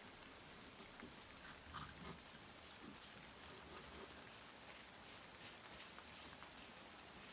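Faint, regular hand-sanding strokes, about two a second, each a short rasping hiss of abrasive rubbing.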